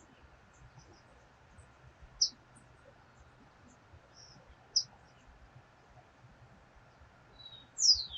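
Bird chirping: a few short, high, widely spaced chirps, then a quick falling call near the end.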